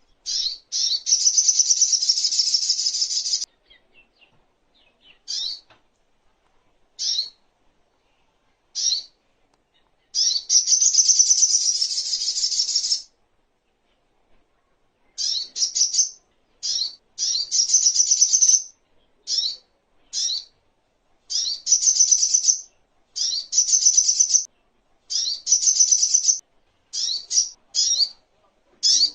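Sogok ontong (spiderhunter) singing: very high, fast trilled phrases. Two long trills of two to three seconds each come early and around the middle, with a few short single notes between them, then shorter trills repeating about once a second through the second half.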